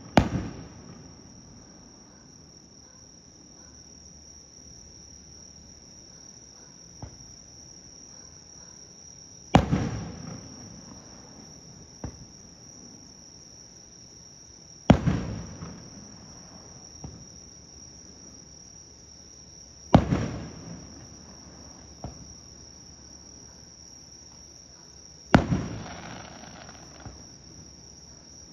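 Aerial firework shells going off one at a time: four loud bangs about five seconds apart, each rumbling and echoing away, and each preceded a couple of seconds earlier by a small pop as the shell is launched. A steady high-pitched insect chorus runs underneath.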